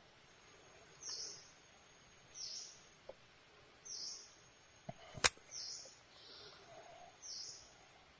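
A bird calling: a short high chirp repeated five times, about one every second and a half. A single sharp click sounds a little past halfway.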